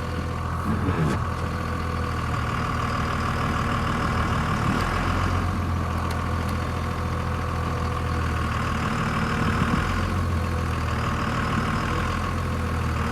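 Truck engine running at a steady idle.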